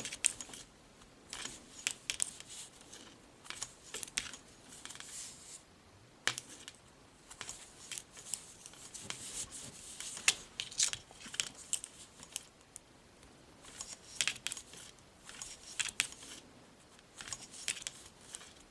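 Knitting needles clicking and scraping in quick, irregular ticks as stitches are knit off one needle onto the other.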